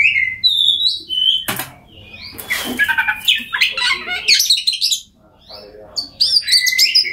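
Oriental magpie-robin (kacer) singing a loud, varied song: clear whistles that slide up and down, mixed with harsh chattering notes. There is a sharp click about a second and a half in and a brief pause about two-thirds of the way through.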